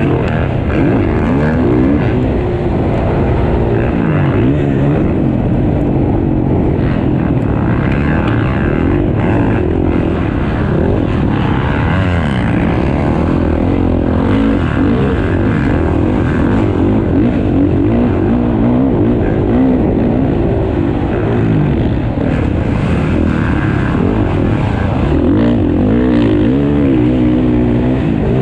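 Several motocross bikes racing around the track, their engines revving up and down over and over as they accelerate, shift and back off, running loud throughout.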